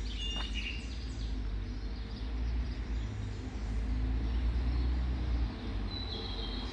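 Birds chirping outdoors, a short burst of calls at the start and again near the end, over a low steady rumble of wind on the microphone.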